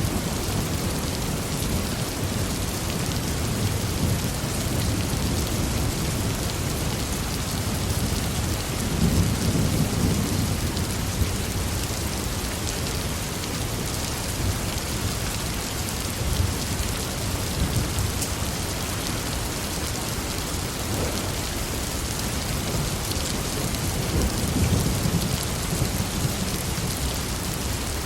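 Heavy rain falling steadily, with low rolling thunder that swells about a third of the way in and again near the end.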